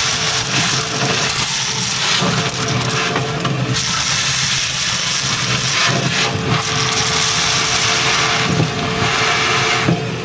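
Vacuum running steadily, sucking leftover corn seed out of the planter's seed boxes.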